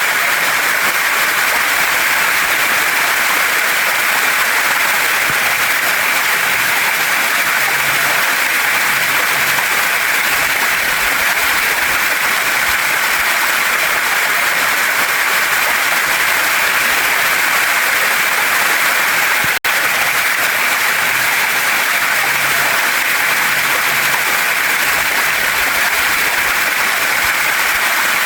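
Waterfall and mountain stream rushing over rocks: a steady, even hiss of water, broken once by a split-second dropout about two-thirds of the way through.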